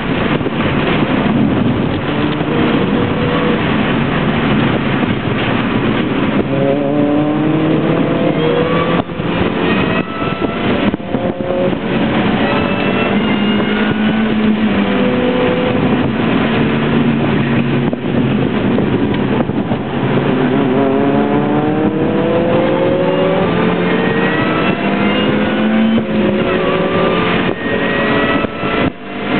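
Mini Cooper's four-cylinder engine heard from inside the cabin under hard track driving, its pitch climbing repeatedly as it accelerates and dropping back at each shift or lift, over steady road and wind noise.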